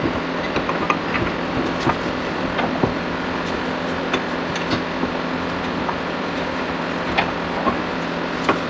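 Workshop sound of hand tools and metal parts: frequent short clinks and knocks over a steady mechanical hum, as the steering knuckle assembly is refitted to the car.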